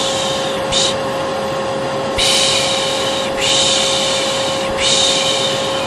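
Vacuum cleaner running steadily with a constant motor hum. Over it a voice makes the 'piş piş' lulling shush four times: a short 'shh' near the start, then three longer ones in a row.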